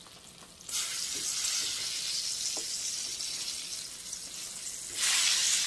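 Breaded fish fillets sizzling in hot oil in a frying pan as a slotted spatula lifts and turns them. The sizzle comes in under a second in and grows louder near the end.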